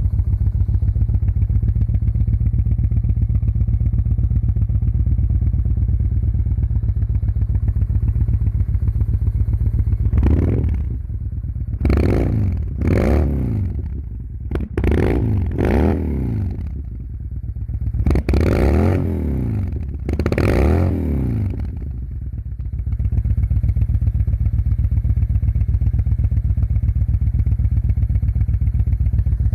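Yamaha Bolt's air-cooled V-twin running cold just after starting, idling steadily. From about ten seconds in, a series of throttle blips revs it up and lets it fall back several times. It then settles back to a steady idle after about twenty-two seconds.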